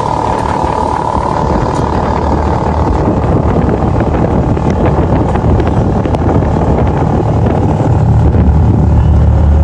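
Motorcycle engine running, with a dense rushing noise that grows steadily louder and deeper toward the end.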